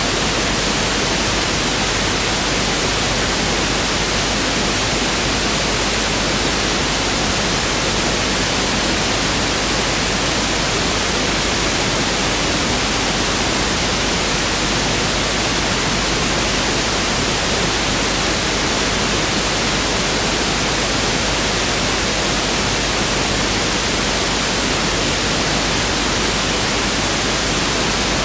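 Pink noise (1/f) test signal: a steady, unvarying hiss spread evenly across the whole frequency range.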